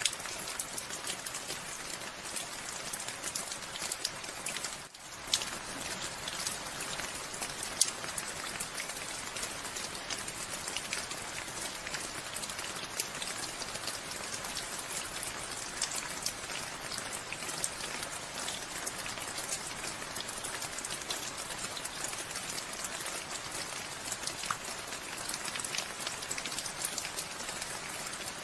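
Steady rain falling, an even hiss dotted with close, individual drop ticks. The level dips briefly about five seconds in.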